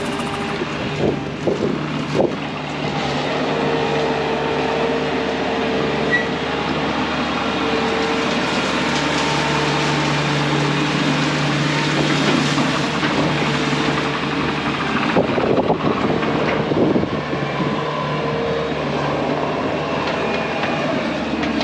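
Bobcat T630 compact track loader's diesel engine running steadily under load, with a few short knocks and clanks from the machine.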